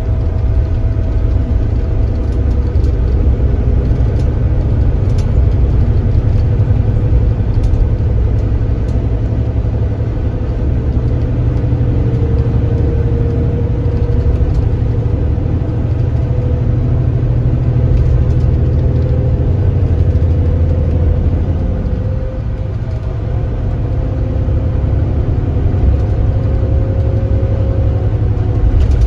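Kia Granbird Sunshine coach's engine running while the bus drives along, a steady low drone with a faint whine that slowly climbs in pitch. It eases off slightly about two-thirds of the way through, then picks up again.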